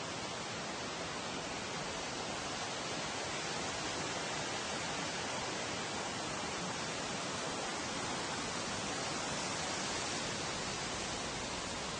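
Wind blowing steadily through tree foliage, a constant rushing hiss of stirring leaves that swells slightly midway.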